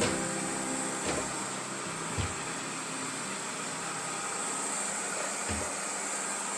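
YONNDER R1 robot vacuum running, its suction-only cleaning head (no roller brush) making a steady, fairly quiet hiss with a high whine. Three soft thumps come about one, two and five and a half seconds in.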